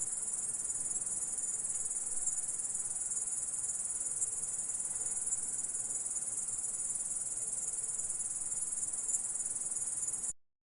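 Grasshopper stridulating: a steady, high-pitched continuous trill that cuts off suddenly near the end.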